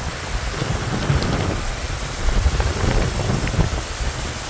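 Rain and the rushing noise of a vehicle driving on a wet road, with a low, uneven rumble of wind on the microphone.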